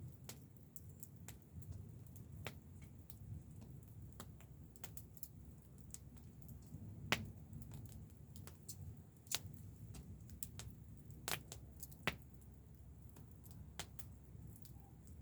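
Wood fire crackling, with irregular sharp pops and snaps over a low rumble; the loudest pops come about 7, 9, 11 and 12 seconds in.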